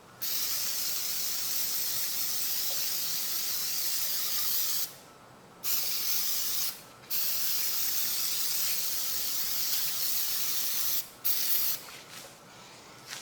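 Aerosol cleaner can spraying in long hissing bursts: one of about five seconds, a short one of about a second, one of about four seconds, then two brief squirts near the end.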